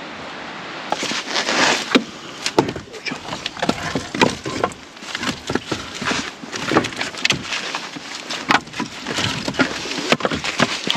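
Wood being handled: an irregular run of knocks, snaps and cracks.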